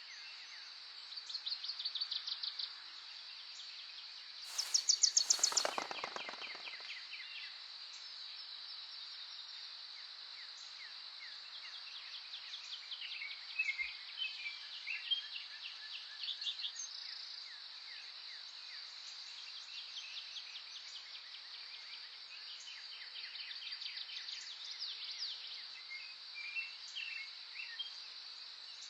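Several songbirds chirping and trilling on and off over a steady high insect buzz. A louder, rapid pulsing call breaks in about five seconds in.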